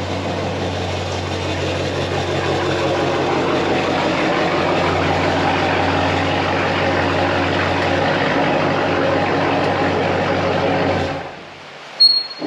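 Chevrolet Camaro engine idling steadily, a little louder from about four seconds in, then cutting off abruptly near the end.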